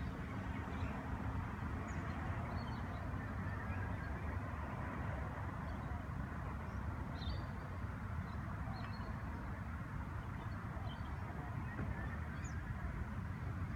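Steady outdoor background rumble and hiss, with short, high bird chirps scattered irregularly through it.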